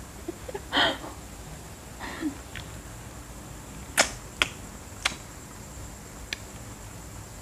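Crispy seaweed snack crunching while being chewed: a handful of sharp, separate crunches, the loudest about four seconds in, with a short breath-like rush near the start.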